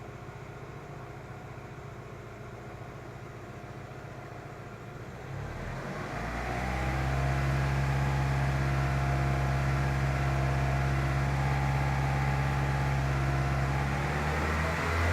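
Car engine idling, then revved up about five seconds in and held at a raised, steady speed, easing off briefly near the end.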